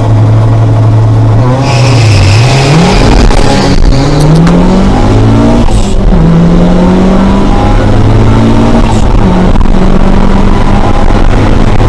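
A turbocharged Škoda 120 and a turbocharged Fiat Seicento launching down a drag strip. Their engines rev up through the gears, the pitch climbing and dropping at each shift, with a brief hiss about two seconds in.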